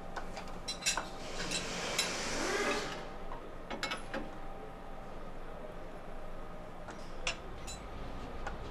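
Scattered light metallic clinks and taps of bolts and tools being handled on a truck's steering linkage, with a brief scraping, rushing noise from about one to three seconds in.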